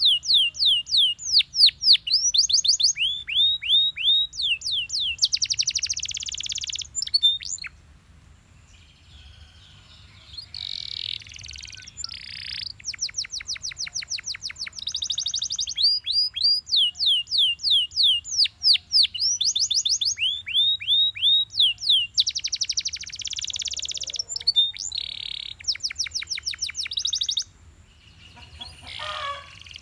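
Canary singing: phrases of rapid, repeated high falling notes and fast buzzy trills, with two short pauses, about a third of the way in and near the end.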